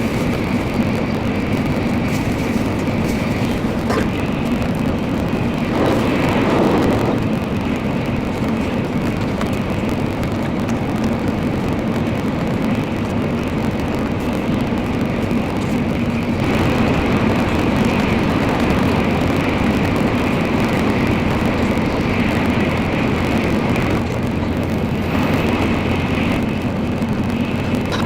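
Nozomi Shinkansen running at speed, its steady rumble and rushing noise heard from inside the passenger cabin, with a brief louder rush about six seconds in.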